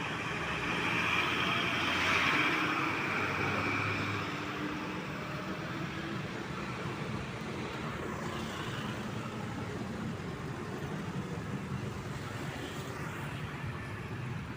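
Road traffic with vehicle engines running steadily. A louder vehicle passes, swelling up and fading between about one and four seconds in.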